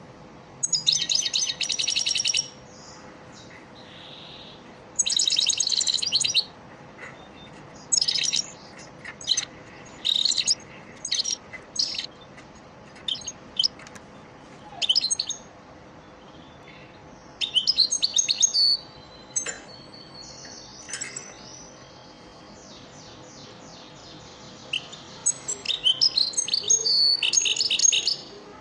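European goldfinch singing: bursts of rapid, high twittering and trills, with short single notes between them and longer twittering phrases near the start, the middle and the end.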